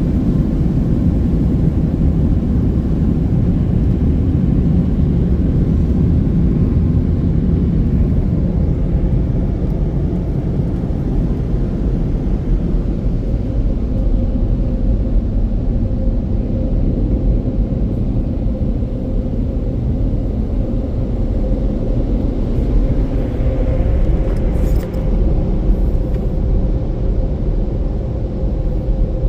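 Car wash tunnel dryer blowers running: a loud, steady rush of air with a heavy low rumble, and a faint steady tone entering about halfway through.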